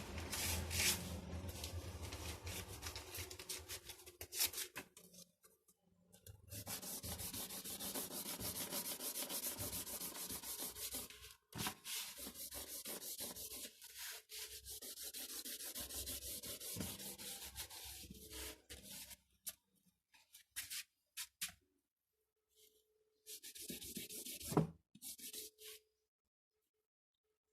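A drawing tool scrubbing on paper in quick back-and-forth shading strokes, in several stretches with short pauses, stopping shortly before the end.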